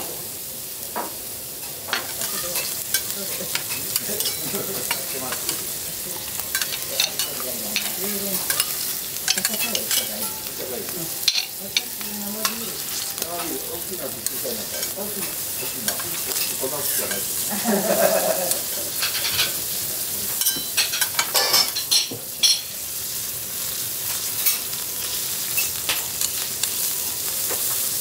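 Scallops sizzling steadily on a hot steel teppanyaki griddle. Frequent light clicks and scrapes come from a metal spatula and knife working against the plate as the scallops are turned and cut, most thickly about three quarters of the way through.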